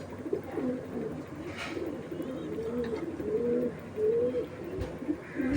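Homing pigeons cooing continuously, low wavering coos overlapping one another.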